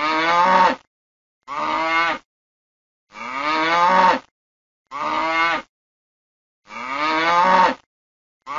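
Cow mooing: six short moos in a row, about one to one and a half seconds apart, each rising then falling slightly in pitch, with dead silence between them.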